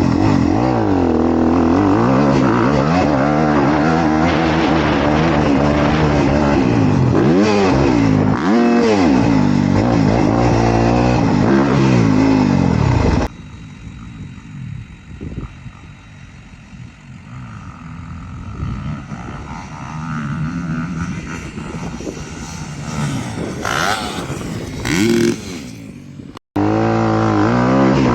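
Honda CRF250R dirt bike's single-cylinder four-stroke engine revving up and down as it is ridden, pitch climbing and dropping with throttle and gear changes. About 13 seconds in, the sound cuts abruptly to a much quieter, more distant engine that slowly builds. After a brief dropout near the end, the loud close engine returns.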